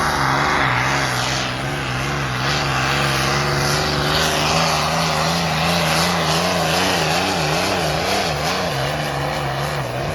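Competition pulling tractor's engine running hard at high revs, its pitch held steady with a slight wavering.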